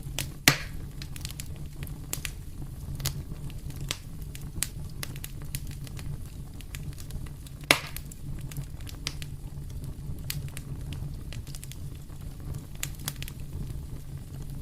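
Wood fire crackling in a fireplace: a steady stream of small snaps over a low steady rumble, with two sharp loud pops, one about half a second in and one about halfway through.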